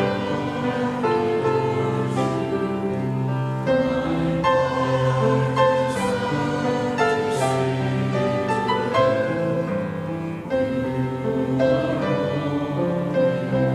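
A choir singing a slow hymn with instrumental accompaniment, in sustained chords that change about once a second.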